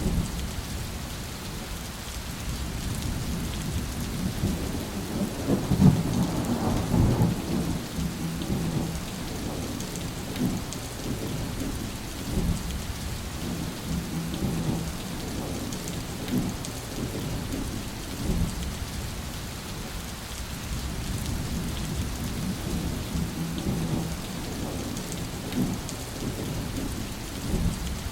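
Steady rain falling, with deep rolling thunder rumbling under it. The thunder swells loudest about six seconds in, then keeps rumbling more softly.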